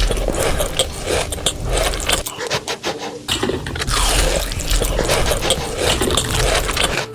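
Close-miked eating sounds: crunching and chewing with dense clicks and scraping, in two stretches with a short pause a little over two seconds in.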